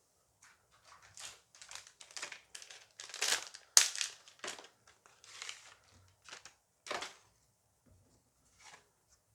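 A foil booster pack being crinkled and torn open by hand: a run of irregular crackles and rustles, loudest with a sharp crackle about four seconds in, then thinning to a few scattered crinkles.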